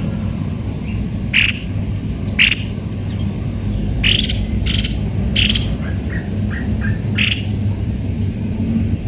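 Caged aviary birds giving short, harsh squawking calls every half second to second or so, with a few quick faint chirps in between, over a steady low hum.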